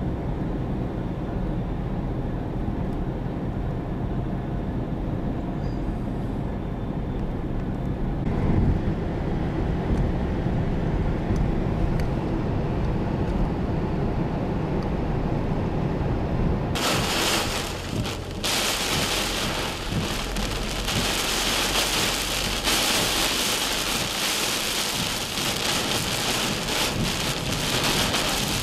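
Thunderstorm: a low rumble for the first half, swelling louder about eight seconds in, then from about seventeen seconds torrential rain pouring with a loud, steady hiss.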